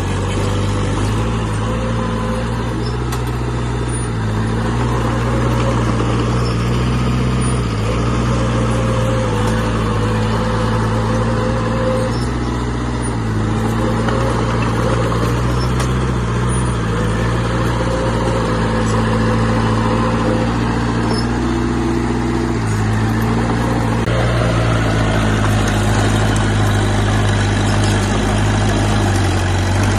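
Heavy diesel engine of earthmoving machinery running steadily, its pitch stepping up and down every few seconds.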